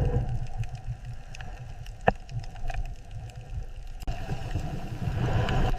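Water ambience: a steady low rumble with gurgling, and a sharp click about two seconds in.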